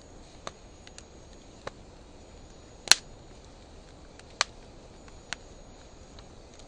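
Wood fire of driftwood and dry hardwood logs burning with a low steady hiss, sharply popping about six times, the loudest pop about three seconds in. The sound is slowed to half speed.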